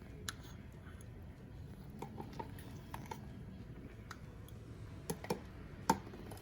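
Scattered light clicks and taps of a kitchen utensil against a dish as fresh homemade cream cheese is moved out into it, the loudest tap near the end, over a faint low room hum.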